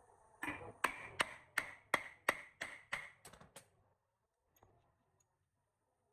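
About ten sharp hammer blows in quick succession, roughly three a second, each with a short metallic ring, stopping just before four seconds in.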